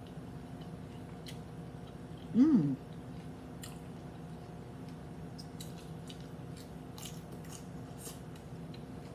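Close-up chewing of a crunchy hard taco shell, with scattered crisp crunches through the second half. About two and a half seconds in there is one short hum of the voice that rises and falls, a sound of enjoyment.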